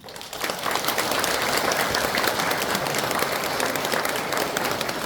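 Congregation applauding: dense clapping that breaks out suddenly and keeps going at a steady level.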